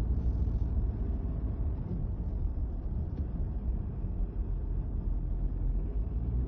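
Steady low rumble of a vehicle driving, engine hum mixed with road noise.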